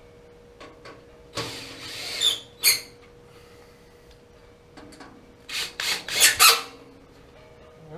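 Parts and tools being handled and scraped against each other during a gas water heater repair, in short rubbing, scraping bursts: a cluster about a second and a half in and another around five and a half to six and a half seconds in, over a faint steady hum.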